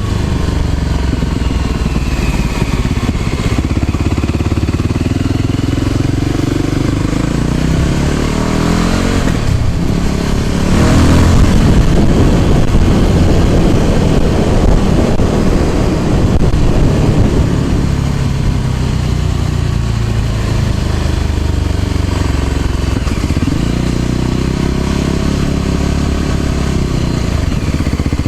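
Motor scooter engine running under way, its pitch rising and falling with the throttle. A louder rushing stretch comes about ten seconds in and lasts several seconds.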